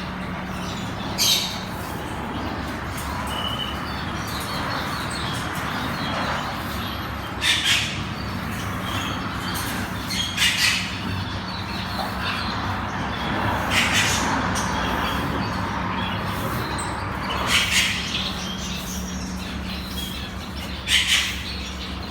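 Caged birds squawking and chirping: about six loud, harsh squawks a few seconds apart over steady chirping, with a low steady hum underneath.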